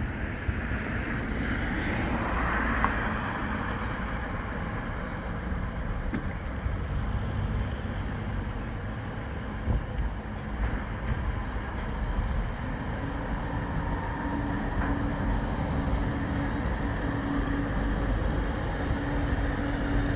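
A large road or rail vehicle running, a low rumble with wind buffeting the microphone; a steady hum joins in about two-thirds of the way through.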